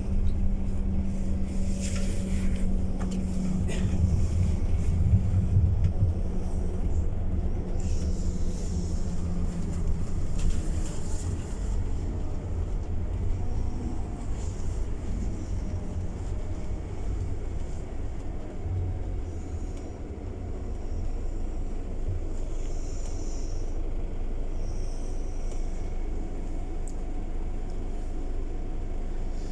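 Scania city bus running, a steady low rumble of engine and tyres with scattered rattles. Its engine note is strongest in the first few seconds and dies away about ten seconds in, leaving the rumble.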